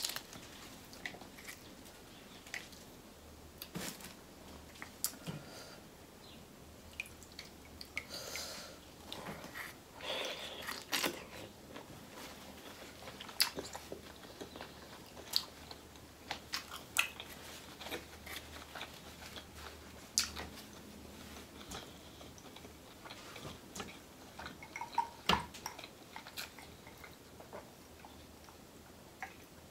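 A person eating seafood close to the microphone: scattered wet mouth clicks and lip smacks of chewing, with now and then a soft crunch.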